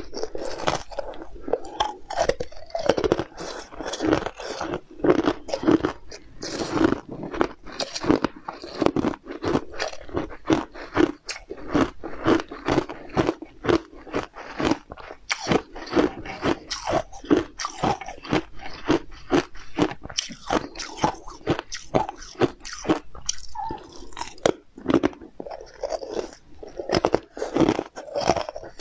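Close-miked crunching, biting and chewing of crunchy glazed sweets topped with blue candy pieces: a fast, continuous run of crisp crackles.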